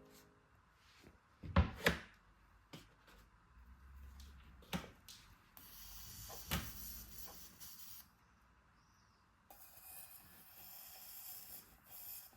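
Small handling sounds of objects being moved: a few sharp knocks and clicks, the loudest about a second and a half in, and two stretches of high hiss lasting a couple of seconds each.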